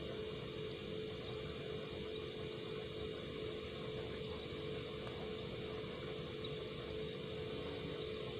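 Refrigerator compressor built for R12 running steadily on an R134a charge: an even mechanical hum with a constant tone over it.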